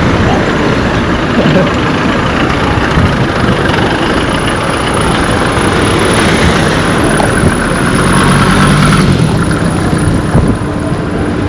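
Road traffic: motor vehicles running and passing close by on a busy street. One engine's hum stands out for a second or two after the middle.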